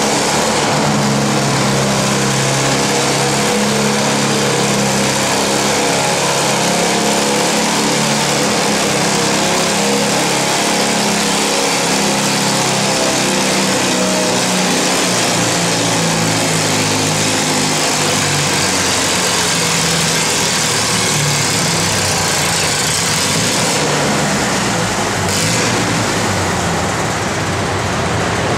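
Antique farm tractor engine running hard during a tractor pull. Its note is steady at first, then wavers and drops a little in pitch in the second half.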